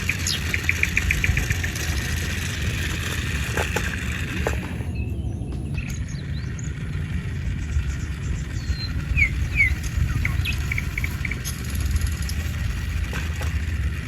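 Birds chirping over a steady low rumble: a quick trill of short notes near the start, and a few short chirps later on.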